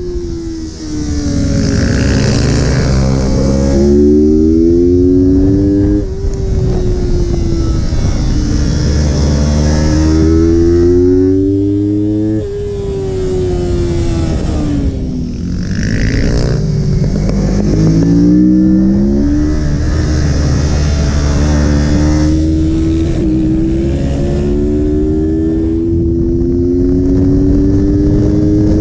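Motorcycle engine ridden hard around a track, revving up under acceleration and dropping at shifts or braking, over and over every few seconds.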